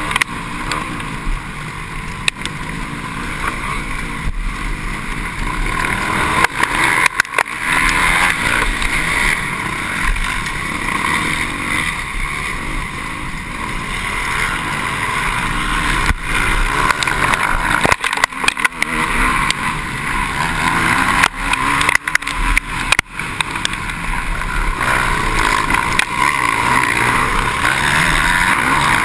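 Several MX1 motocross bikes racing, their engines blending into a continuous high-revving drone that rises and falls slightly.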